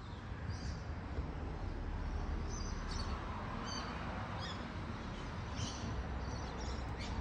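Small birds chirping in short, high, faint calls now and then over a steady outdoor hiss and low rumble.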